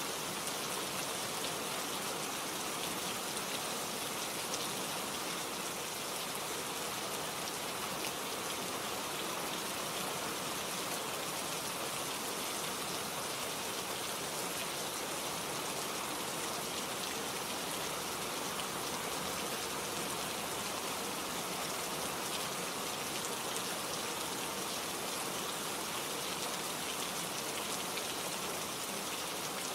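Steady rain falling, the patter of drops on leaves and surfaces, even throughout.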